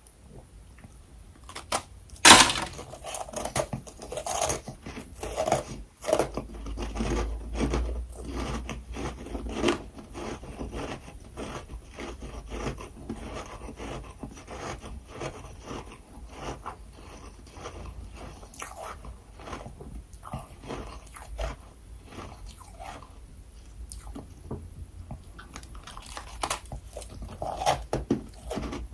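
Close-miked mouth crunching and chewing of freezer frost: a dense, irregular run of crunches, with one sharp, loud bite about two seconds in.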